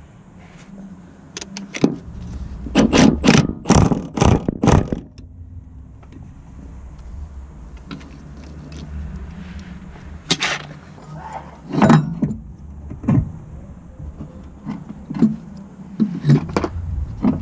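Irregular clanks and knocks of metal tools and car parts being handled during a repair, coming in three clusters over a low steady hum.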